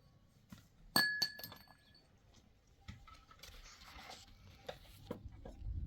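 A sharp clink about a second in, ringing briefly like glass or thin metal, followed quickly by a second lighter clink, then a few faint knocks.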